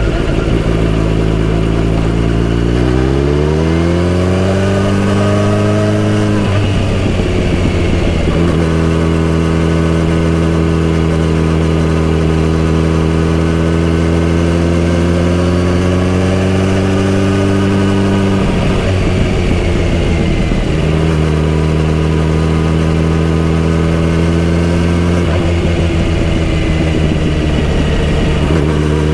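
Kawasaki Z900RS inline-four motorcycle engine and exhaust under way. The engine revs up a few seconds in, then holds a steady cruising note. The note breaks up briefly twice, once around six seconds in and once just before twenty, settling at a slightly different pitch each time.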